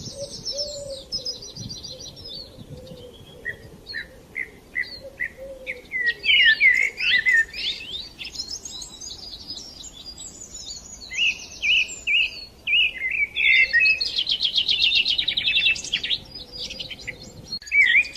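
Birds chirping and singing: a busy mix of short calls and quick trills of repeated notes, with the loudest stretches about six seconds in and again from about eleven to sixteen seconds.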